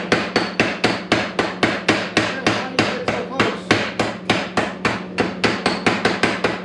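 Hammer striking steel in a fast, even rhythm, about four ringing blows a second, over a steady low hum.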